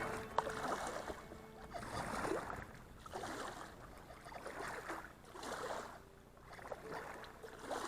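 Kayak paddle strokes in the water: a swishing splash about every second and a half as the boat is paddled along.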